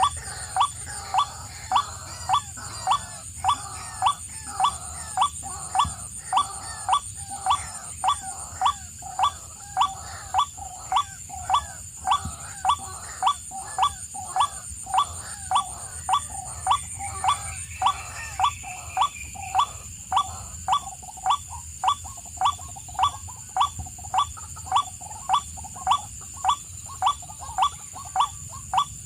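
A bird call repeated evenly about one and a half times a second, each call a short note that falls in pitch, over a steady high-pitched whine.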